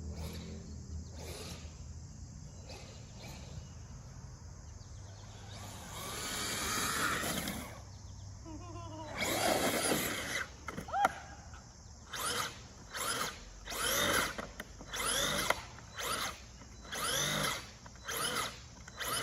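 Electric motor of a radio-controlled truck whining as the throttle is worked: two longer rising runs about a third of the way in, then a string of short bursts, roughly one a second, in the second half.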